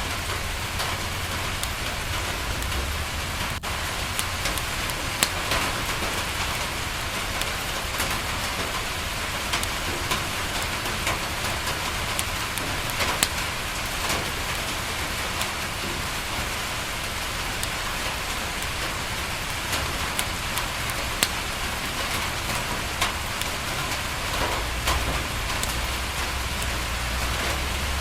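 Steady rain falling on a window: an even hiss with scattered sharp ticks and pops. A low rumble swells near the end.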